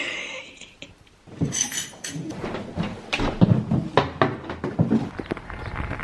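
A short hiss, then from about a second in a run of irregular thuds and knocks: a door being handled and footsteps.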